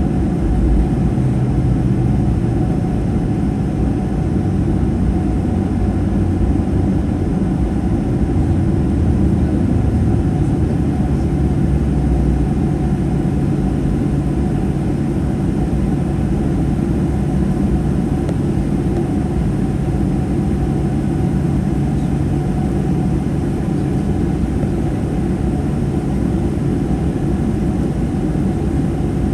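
Steady in-flight cabin drone of a Boeing 737-800, with the hum of its CFM56-7B engines under the rush of airflow. A low engine hum steps up slightly in pitch about ten seconds in.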